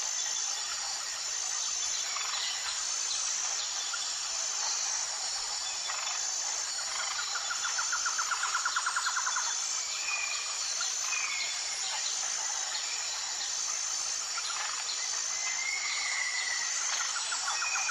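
Jungle ambience: a steady high insect drone with evenly repeating chirps over it, and short bird whistles here and there. A fast rattling trill comes in about seven seconds in and again near the end.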